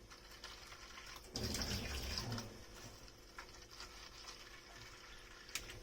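Kitchen sink tap water running briefly for about a second while dishes are washed, then quieter dripping and a few light knocks, with a sharp click near the end.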